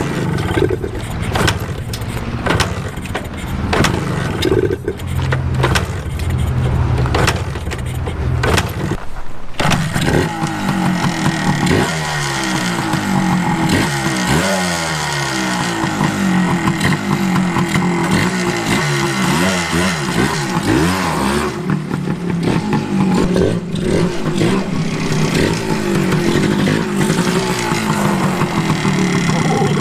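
1981 Suzuki TS 250's single-cylinder two-stroke engine firing irregularly in rough pops and bangs for about nine seconds, then catching and running, revved up and down repeatedly before settling into a steadier run.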